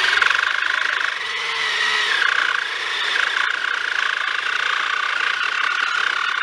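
Ryobi 40-volt battery pole saw running flat out and cutting into an ash limb. Its high, steady chain-and-motor whine dips in pitch twice near the start as the chain loads up in the wood.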